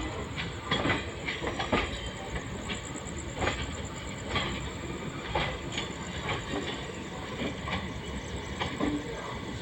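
LHB passenger coach wheels running over the track: a steady rumble and hiss with irregular sharp clicks and knocks over rail joints, most frequent in the first couple of seconds.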